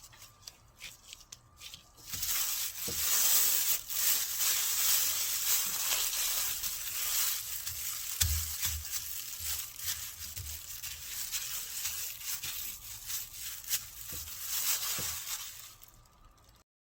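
Steady rustling and scraping of food preparation with many small clicks, starting suddenly about two seconds in after a few light taps, and cutting off near the end.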